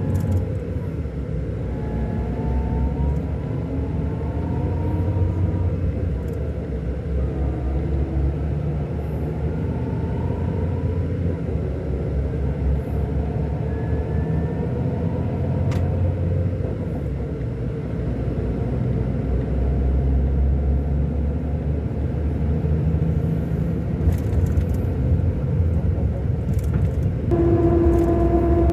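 Scania K-400 bus's 13-litre inline-six diesel running under way, a deep steady rumble whose pitch rises and falls several times as the engine revs change. About a second before the end a steady higher hum sets in over it.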